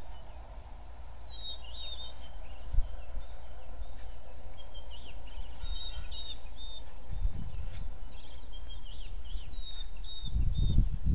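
Small birds chirping in short, repeated high phrases over a steady low outdoor background noise. Near the end a louder low rumbling comes in.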